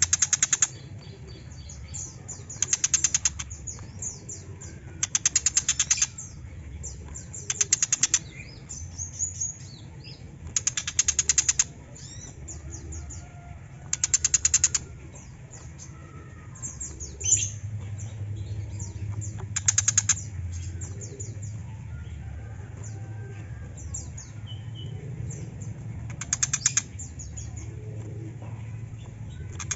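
Tiger shrike giving harsh rattling calls of about a second each, repeated every few seconds, with short high chirps in between. A faint steady low hum runs underneath.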